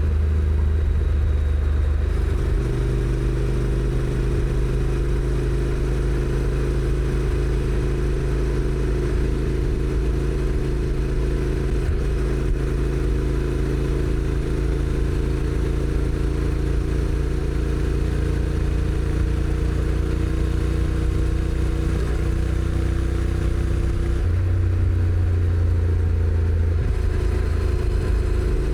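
Honda NC750X DCT motorcycle's parallel-twin engine, stock exhaust, running steadily under way, with wind and road noise. The engine note steps to a new pitch about two seconds in and changes again twice near the end.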